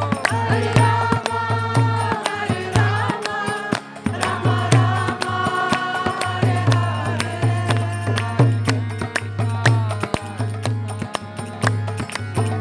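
Kirtan music: voices chanting a mantra together over rhythmic percussion, with sharp, quick strokes and a pulsing low beat.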